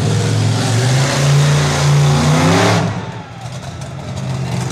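Monster truck engine revving hard, its pitch rising for a couple of seconds, then the throttle snaps shut about three seconds in and the engine comes back up near the end.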